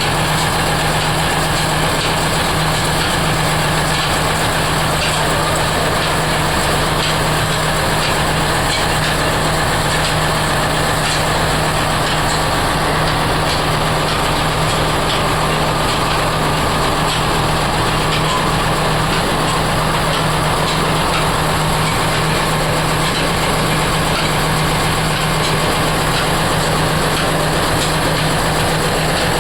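Oil expeller machinery running steadily: a constant low hum with a faint, regular light ticking over it.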